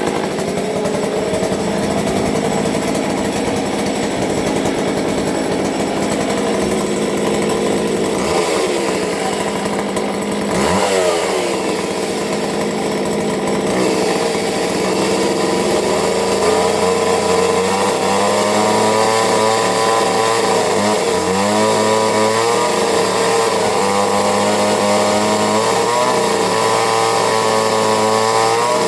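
McCulloch two-stroke chainsaw engine running after a cold start on choke. Its speed dips and climbs again about ten seconds in, then wavers up and down through the second half.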